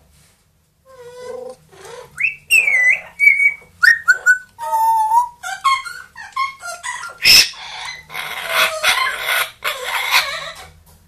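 Pet parrot whistling a string of short, gliding notes and chirps. About 7 seconds in there is a sharp click, followed by a couple of seconds of harsher, raspy calls.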